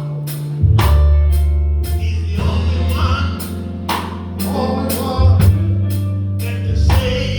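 Live gospel band playing: a drum kit keeps a steady beat of about two hits a second under low bass notes, keyboard and guitar, with singing over the top.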